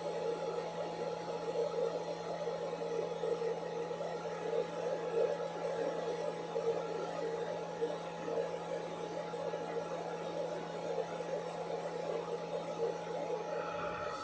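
A steady electrical hum with a wavering whir over it, like a small appliance or motor running; it cuts off abruptly near the end.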